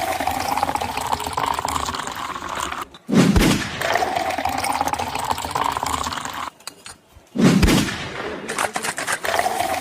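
Fizzy soda water gushing and pouring in a steady rush, broken twice by a short pause and a heavy thump, about three seconds in and again near eight seconds.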